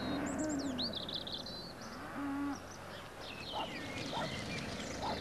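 Countryside birdsong ambience: birds chirping in quick high trills, with a short low call about two seconds in and scattered chirps after it.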